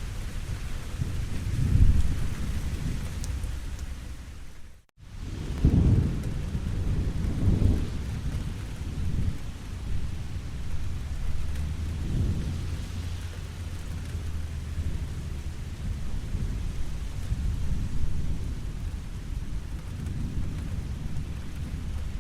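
Steady rain falling, with low rolls of thunder rumbling several times, the strongest about two seconds in and again just after the break. About five seconds in the sound cuts out for a split second and then comes back.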